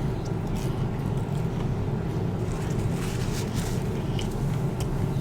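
Steady low background hum, with a few faint soft clicks scattered through it.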